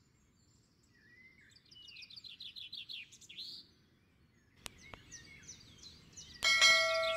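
Songbird chirping in rapid trills of repeated high notes, with a sharp click a little past halfway. Near the end, a louder click and a ringing chime of several steady tones: the sound effect of a subscribe-button animation.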